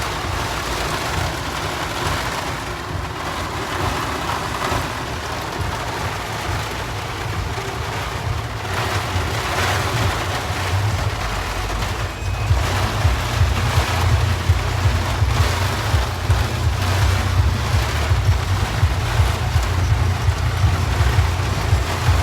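Rain and rushing floodwater, a steady noise with a low rumble underneath that grows louder about halfway through.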